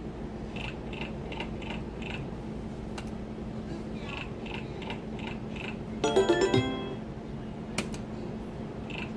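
Video slot machine sound effects: runs of short electronic chime blips, about three to four a second, with a brief louder jingle about six seconds in, over a steady electrical hum.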